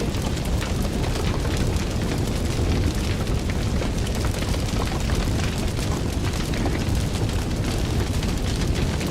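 Fire crackling: a dense, continuous scatter of small pops and crackles over a steady low rumble.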